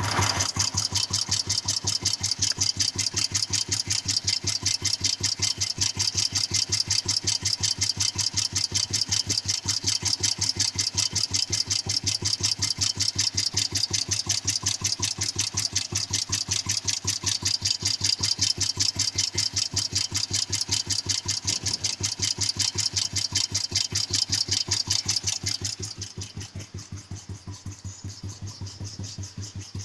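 Royal Enfield cast-iron 350 single-cylinder engine running at a steady idle with an even, rapid thump. It carries a knock that the owner wonders may be piston knocking. The sound drops noticeably in level near the end.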